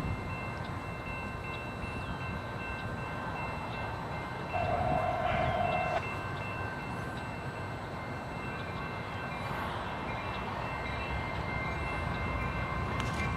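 Freight train rolling past with a steady low rumble. A short single-pitched tone sounds about four and a half seconds in and lasts about a second and a half.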